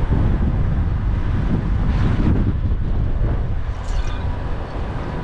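Strong gusting wind buffeting the camera microphone through its wind guard, giving a heavy, continuous rumble.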